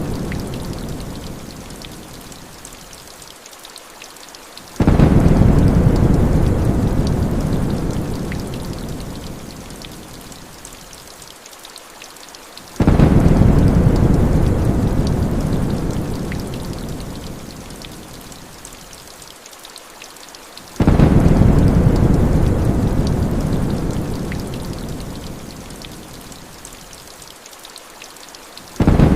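Heavy rain on a surface with rumbles of thunder. Each rumble starts suddenly and fades away over several seconds, coming at even spacing about every eight seconds, three times, with a fourth starting at the very end.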